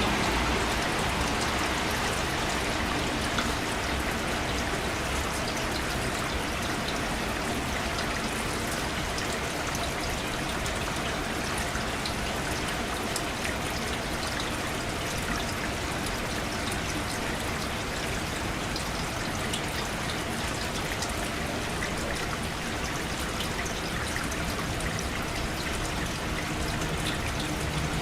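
Steady rain with water trickling and pouring, scattered drops ticking, at an even level throughout.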